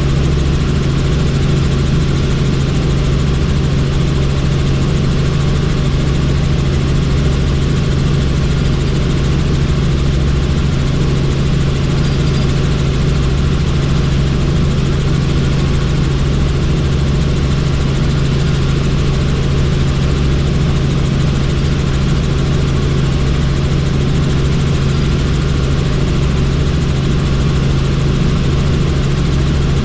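Helicopter in flight: a loud, steady drone of rotor and engine with a strong low hum, unchanging throughout.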